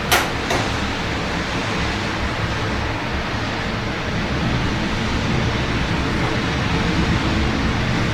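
Steady rain mixed with the hum of city traffic, with two sharp taps close together just after the start.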